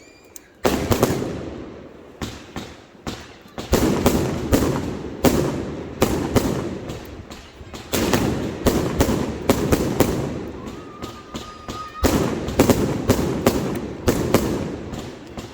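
Fireworks going off in quick succession: repeated sharp bangs, each trailing off in an echoing rumble and crackle, with no pause between bursts.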